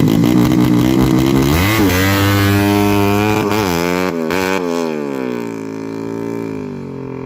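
Engine of a 200cc Yamaha Jupiter-based drag bike revving, its pitch climbing and then jumping up and down in several quick throttle blips about halfway through, before easing down and fading.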